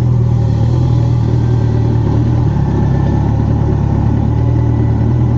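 Motorcycle engine running at steady revs while riding, with a steady low drone and no change in pitch.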